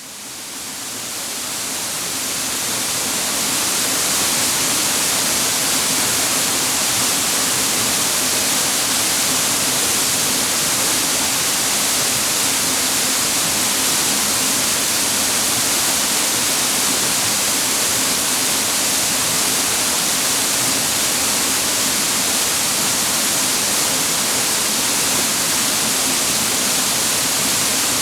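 Waterfall: water pouring steadily onto rocks, a dense even rush with a bright hiss. It fades in over the first few seconds, then holds steady.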